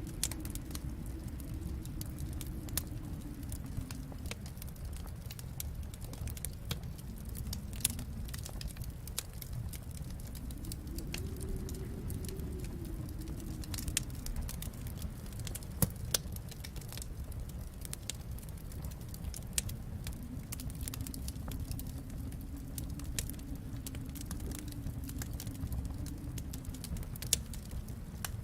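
Wood fire crackling, with frequent sharp pops over a steady low rumble that swells and fades slowly; a few pops stand out louder.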